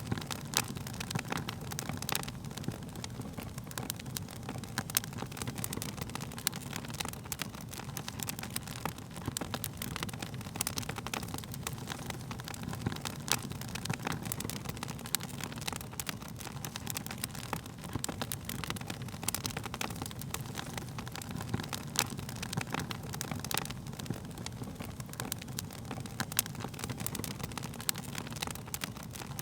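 Wood fire crackling, with frequent irregular sharp pops and snaps over a low steady rumble of the flames.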